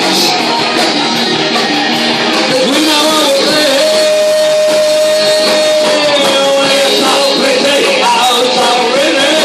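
Live rock band playing a cover song with electric guitar and singing, and one long held note in the middle.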